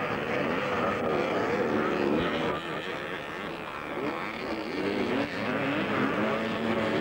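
Several vintage 250cc twinshock motocross bikes racing together, their engines revving up and down with overlapping pitches that rise and fall throughout.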